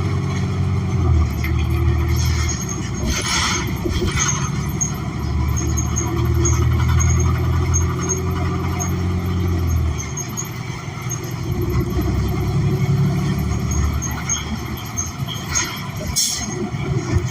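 New Flyer XN40 transit bus with a Cummins Westport ISL G natural-gas engine and Allison transmission, running on the road and heard from inside the cabin, its low drone changing pitch a couple of times. There are a few short hissing bursts, about three seconds in and near the end.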